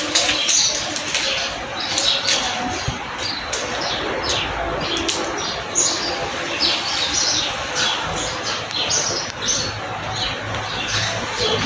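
Many small birds chirping at once: a dense chorus of short, high chirps over an even background hiss.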